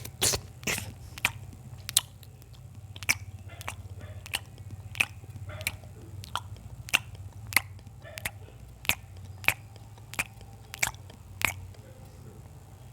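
Close-miked mouth sounds of chewing: a run of sharp wet smacks, about one every half second, stopping near the end, over a steady low hum.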